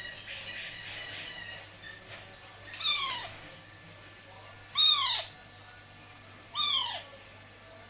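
Baby Alexandrine parakeet calling three times, roughly two seconds apart, each call a short harsh cry that falls in pitch.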